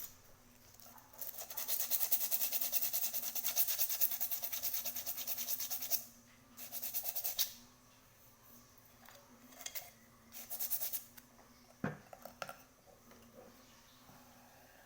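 Fast back-and-forth rubbing strokes on a surface, of the kind that scrubbing, sanding or wire-brushing makes. They come in bursts: one long run of about five seconds, then shorter ones, with a single knock near the end.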